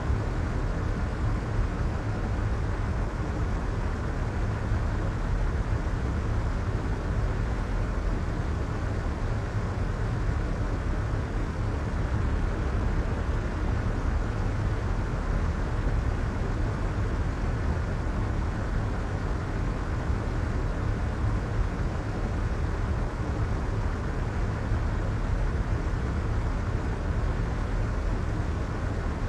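Soft white noise: a steady, even hiss weighted toward the low end, with no change in level.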